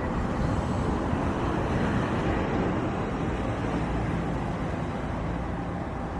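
Jet airliner engines running loud and steady, fading slowly toward the end, with a faint high turbine whine near the start.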